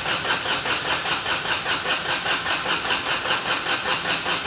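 Kubota D905 three-cylinder diesel being cranked over by its electric starter, with an even rhythm of about four to five compression pulses a second. The engine turns over at a good, steady cranking speed.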